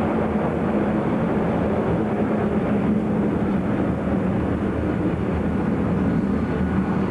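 Jet airliner engines running: a steady rumble with a low hum that holds at the same level throughout.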